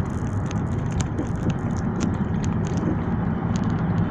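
Car driving along: a steady low rumble of engine and road noise, with many small clicks and rattles throughout.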